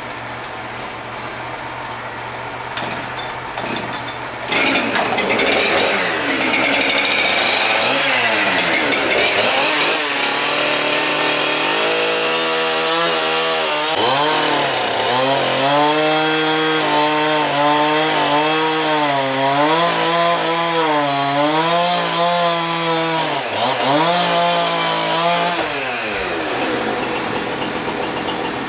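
Wood-Mizer LT35 portable band sawmill running: a steady engine note, joined about four and a half seconds in by a loud hiss from the band blade. From about halfway through, the engine pitch wavers up and down under load as the blade cuts through white oak, then steadies again near the end.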